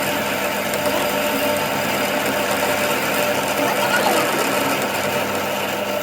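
Machinery running steadily: a constant hum under dense mechanical noise.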